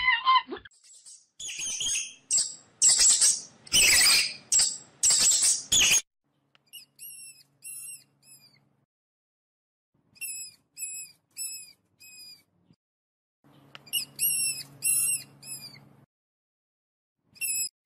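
A guinea pig squeaking while it is bathed: short, high chirps in quick runs of four or five, with pauses between runs. Harsh, noisy bursts fill the first half before the chirps begin.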